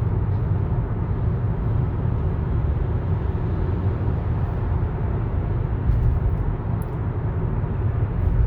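Steady road and drivetrain rumble heard inside the cabin of a moving 2015 Toyota Camry SE, with no clear clunk or pop standing out.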